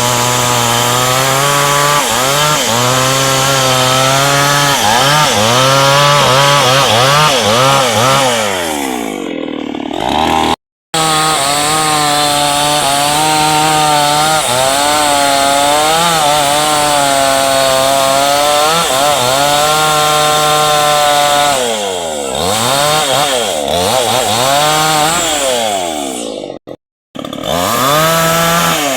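Chainsaw running hard while cutting into dense hardwood, its engine pitch wavering up and down as the chain bogs under load and recovers. The engine drops in pitch a few times, and the sound breaks off twice for a moment, about ten seconds in and near the end.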